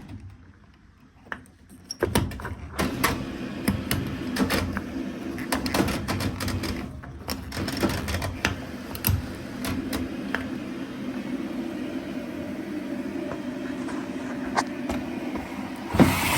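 A 1991 Zanussi washing machine starting its wash programme: after a brief quiet, a steady low motor hum sets in, with repeated mechanical clicks and knocks. A louder rushing noise begins near the end.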